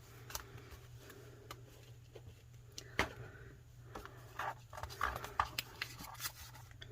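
Paper handling: faint rustling with scattered light clicks and taps as a paper pocket of journaling scraps is handled, one sharper click about three seconds in, over a low steady hum.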